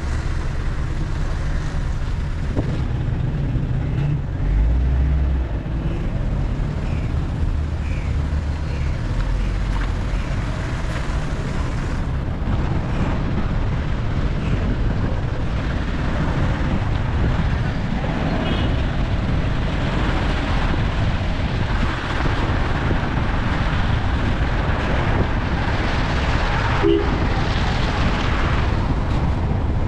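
Steady rumble and rushing noise of a moving vehicle on the road, with wind noise throughout.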